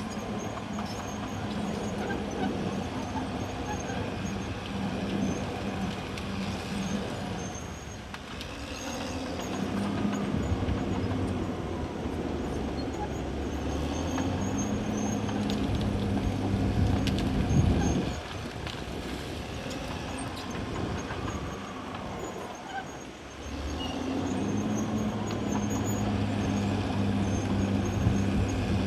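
CAT D6R XL bulldozer's diesel engine running under working load. It eases off briefly about a third of the way in and again near the end. Shortly after the midpoint it rises to its loudest and then drops off suddenly.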